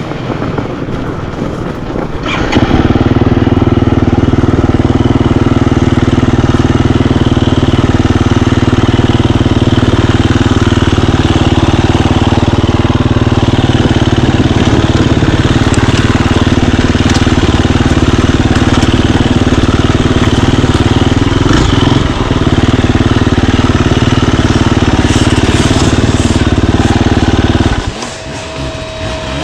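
Enduro motorcycle engine running loud and steady at a nearly constant pitch from about two and a half seconds in, with a brief dip a little after twenty seconds, then dropping away near the end.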